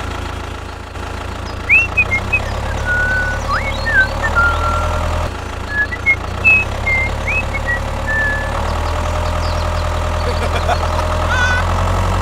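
A mini tractor's small motor running steadily with a low, even hum that grows a little louder about two seconds in and again past the middle. Short high chirps come and go over it in the first two-thirds and again near the end.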